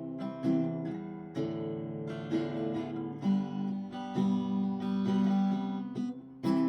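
Acoustic guitar strummed in chords, an instrumental break between sung verses of a folk ballad.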